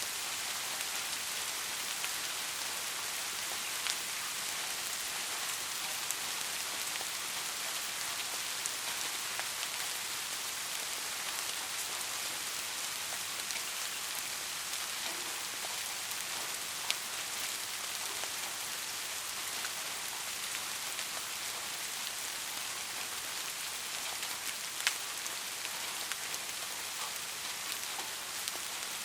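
Steady rain falling, an even hiss with scattered sharper drop ticks, a few louder single drops standing out.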